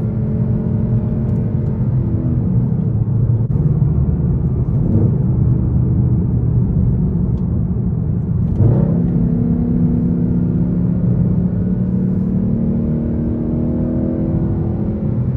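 Straight-piped Infiniti M56's 5.6-litre V8 running under way, its exhaust note sinking in pitch over the first few seconds, then steady. About two-thirds of the way in there is a short louder blip, after which the pitch holds and eases off again near the end.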